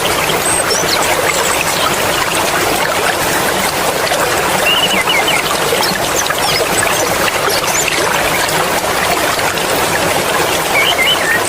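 Mountain stream flowing steadily, a dense even rush and trickle of water. A few short high-pitched chirps come through now and then.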